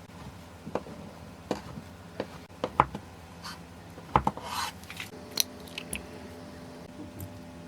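Kitchen knife cutting food on a cutting board: about ten irregular knocks of the blade against the board, with a short scraping rustle a little past the middle.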